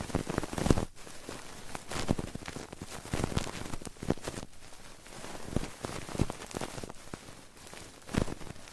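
Close-miked ASMR trigger sounds: irregular crackling taps and scratches, several a second, varying in loudness.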